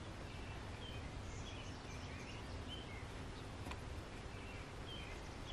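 Faint bird chirps scattered over a low, steady background rumble.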